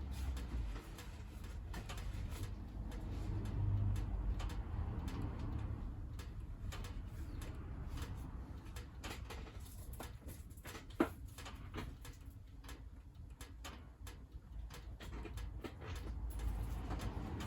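Wood fire burning in a wood stove: scattered small crackles and ticks over a low rumble that swells and fades, with one sharper pop about eleven seconds in.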